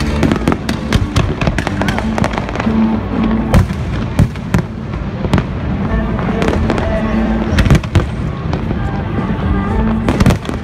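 Aerial fireworks display: shells bursting in a rapid, irregular series of bangs and crackles, several a second, over a continuous din.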